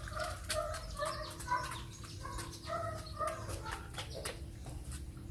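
A bird calling in a run of short, even notes, about three a second, with light clicks alongside.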